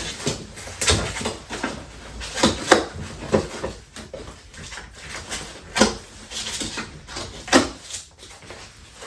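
Cardboard and foam packaging being handled and pulled apart: irregular rustles, scrapes and knocks, with a few louder ones.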